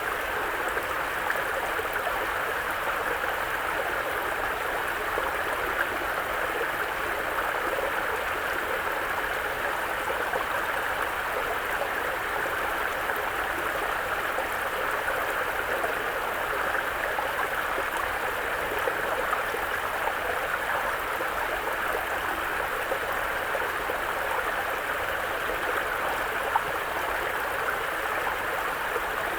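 Mountain brook flowing over rocks: a steady babble of running water, even throughout.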